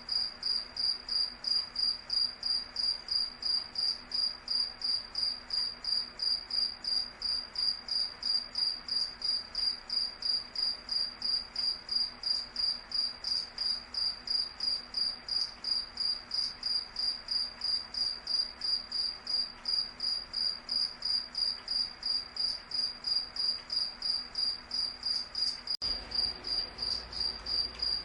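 Cricket chirping steadily, a high-pitched chirp repeating evenly about three times a second. Near the end there is a momentary break, followed by a faint low rumble under the chirping.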